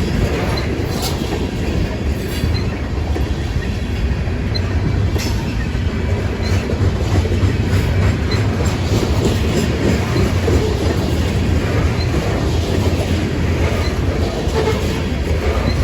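Loaded grain train's covered hopper cars rolling past at speed: a steady, loud rumble of steel wheels on rail with occasional faint clicks.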